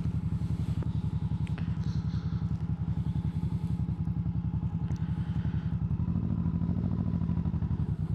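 Yamaha MT-07 parallel-twin motorcycle engine running at low speed with a steady pulsing exhaust, the revs rising slightly about six seconds in before settling again.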